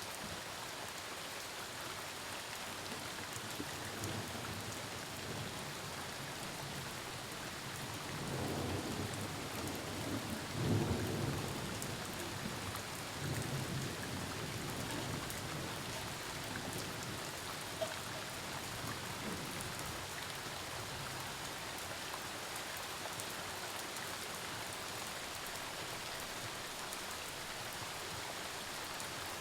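Steady rain falling, with a low rumble of thunder that swells about eight seconds in, is loudest around eleven seconds and dies away a few seconds later.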